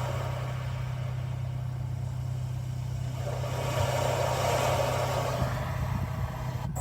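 Ocean-waves nature-sound track playing through the car's infotainment speakers, a hiss that swells and ebbs like surf, surging in again about three seconds in. Under it the engine idles with a steady low hum.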